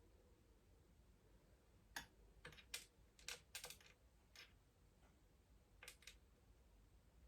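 Faint, irregular light clicks and taps of small M.2 mounting parts being handled on a motherboard. A cluster of about six comes between two and four and a half seconds in, and two more about six seconds in, over quiet room tone.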